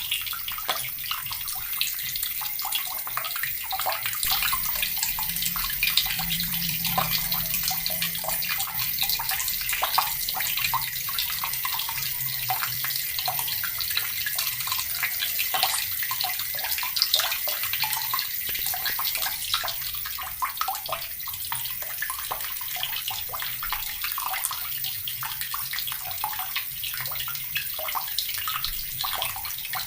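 Water tap running steadily, the stream splashing and spattering as it falls.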